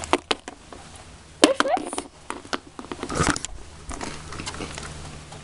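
Scattered light clicks and taps of small objects being handled, with a short rising vocal sound about a second and a half in and a brief rustle about three seconds in.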